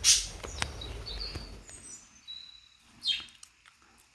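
Pet budgerigars chirping: a rough, scratchy burst at the start, then short thin high chirps, and a harsher squawk about three seconds in.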